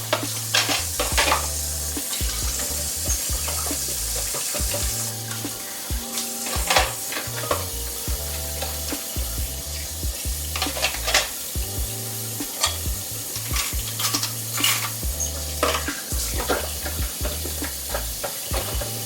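Dishes and utensils clinking and clattering in irregular knocks over a steady hiss, with a music bass line playing underneath.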